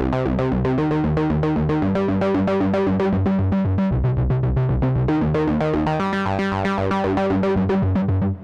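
Analog polyphonic synthesizer playing a fast repeating pattern of short plucked notes, about four a second, over held bass and chord notes that change every few seconds. It stops at the very end, the last notes fading out.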